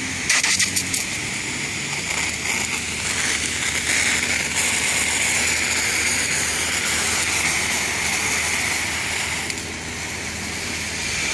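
Water jet from a portable electric car washer's spray gun hitting a dusty car, a steady hiss that starts abruptly, with the washer's pump humming low underneath.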